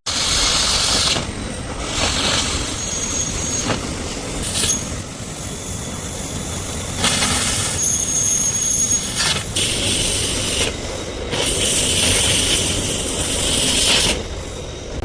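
Metalworking tools at work on sheet metal: swelling stretches of harsh hiss, a thin high-pitched squeal at times, and a couple of sharp knocks about five seconds in.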